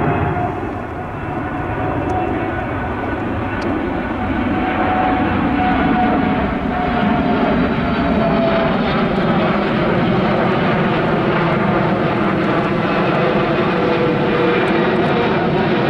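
Jet engines of a twin-engine airliner arriving to land: a steady rumble with whining tones. It grows louder over the first six seconds or so, then holds steady.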